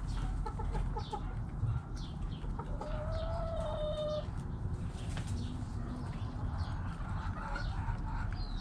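Backyard hens clucking: a quick run of short clucks about half a second in, then one hen's drawn-out, steady call around three seconds in, with scattered clucks after. Small birds chirp high in the background over a steady low rumble.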